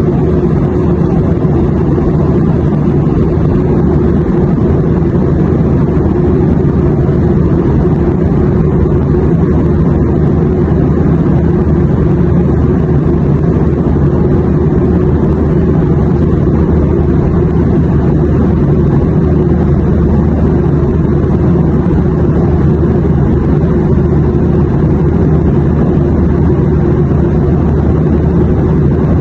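Airplane cabin noise: a steady, unchanging low rumble of a jet in flight, deepest in the bass and thinning out in the highs.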